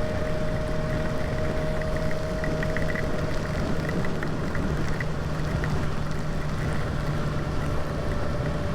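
Kawasaki ZX-6R inline-four engine running at steady revs while cruising, under a constant rush of wind noise.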